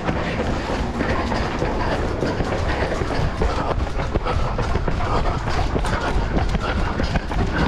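Running footfalls and jolts of a hand-held phone or camera over a heavy wind rumble on the microphone. Many short irregular knocks sit over a steady low noise.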